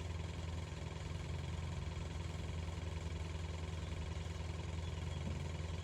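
Steady low engine drone, like a motor running at idle, holding an even pitch and level.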